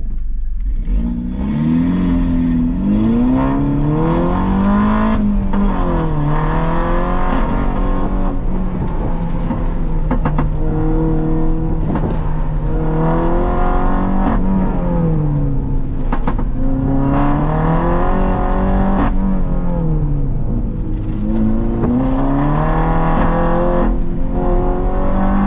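2018 Mini Cooper S's turbocharged four-cylinder engine, heard from inside the cabin during an autocross run. It pulls away from a standstill in the first second or so, then its pitch rises and falls again and again as the car speeds up and slows through the course.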